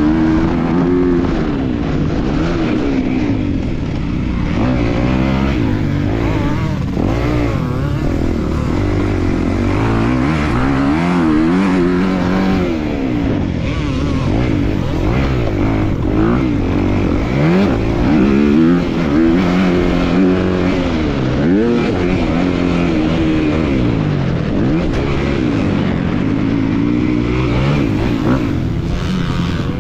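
250-class motocross bike engine ridden hard, its pitch rising and falling again and again every second or two as the throttle is opened and closed.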